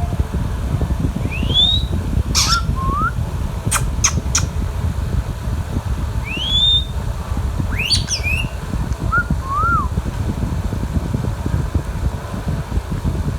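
Indian ringneck parakeet giving a few rising whistled calls, with short lower notes and a few sharp clicks in between, over a steady low rumble.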